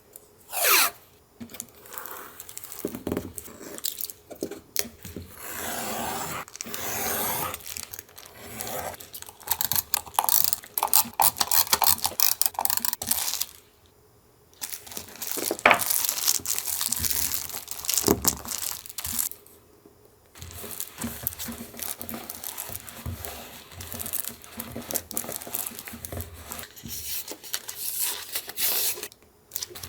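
Paper being torn, crinkled and handled for a collage journal page: a run of irregular rustles, rips and crinkles, broken by two short pauses.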